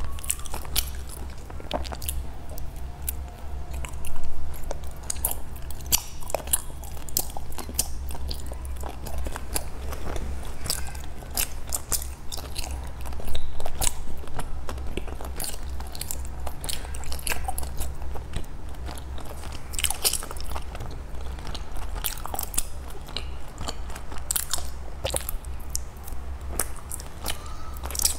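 Close-miked chewing and biting of soft cakes: wet mouth clicks and smacks, with a louder bite twice. A steady low hum runs underneath.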